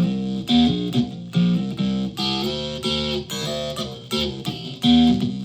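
Solid-body electric ukulele played through a home-built clone of the Dwarfcraft Hax pedal, a short riff of picked notes with a distorted, buzzy tone, a new note about every half second.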